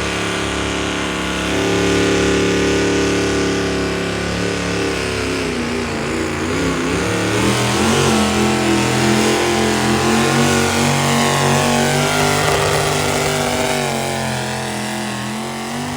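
Competition pulling vehicle's engine running hard and steadily at high revs. Its pitch wavers about halfway through, then climbs and holds higher until it starts to drop near the end.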